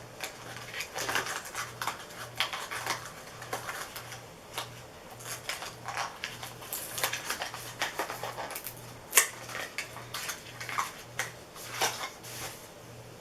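Irregular clicks and scrapes of hands working at the cap of a small bottle of facial oil that is hard to open, with one sharper click about nine seconds in.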